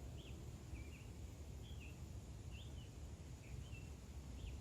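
A single bird giving short, separate chirps, each a quick up-and-down note, about one a second, over a steady low background rumble.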